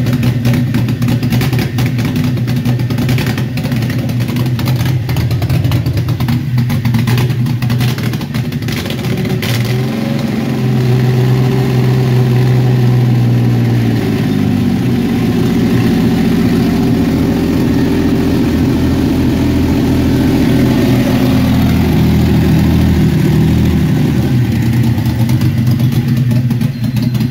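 Toyota 2JZ-GE naturally aspirated inline-six running at a fast idle. Its pitch rises about ten seconds in, shifts again a few seconds later, then holds steady.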